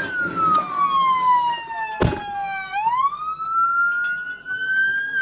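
Police car siren in wail mode: a slow falling tone that turns and rises again about three seconds in. There is a sharp knock about two seconds in.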